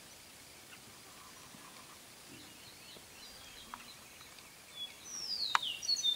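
Birds singing: faint twittering, then several loud whistled notes near the end that slide down in pitch, over a low outdoor hiss, with two sharp clicks.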